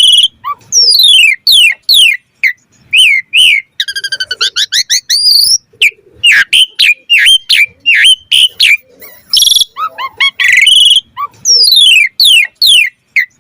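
Pied starling (jalak suren) singing a loud, varied song: repeated falling whistles, short hooked notes and fast trills in separate phrases with short pauses between them, mixing in fill-in phrases (isian).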